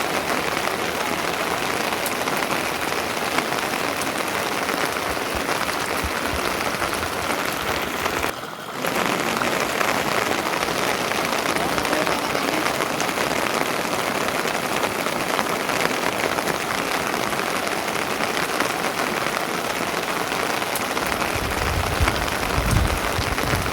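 Steady, heavy rain falling, an even hiss of drops throughout, with a brief drop in level a little over 8 seconds in. Low rumbling joins in near the end.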